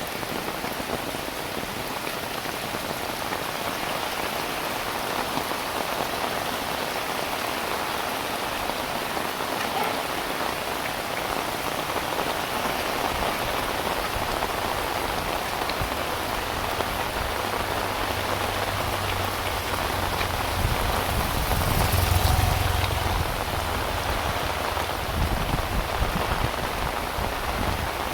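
Heavy rain falling steadily, a dense patter on surfaces. In the second half a low rumble swells up, peaks a few seconds before the end, and then eases off.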